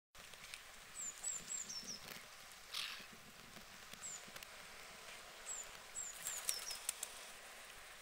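High, thin chirps from a small bird: short falling whistle notes in quick runs of three to five, with a lone note between the runs. A few sharp clicks come near the end.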